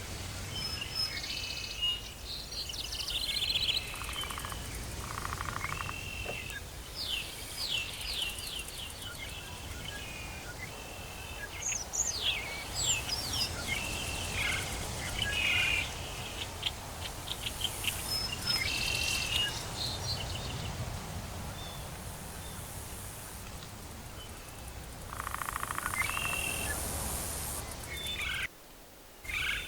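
Tropical forest ambience: many birds calling with short chirps and trills, layered over a steady low background hum. The sound drops out briefly about a second before the end.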